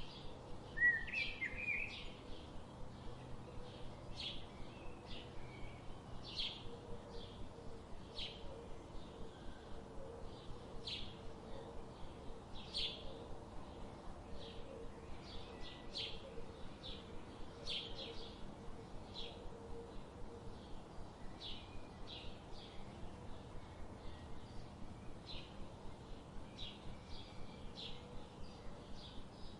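Birds chirping: a steady run of short, high chirps at about three a second, with one louder rising call about a second in.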